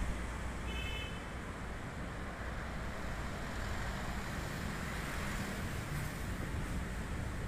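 Steady noise of a KAI passenger train at the station, with a brief high squeal about a second in.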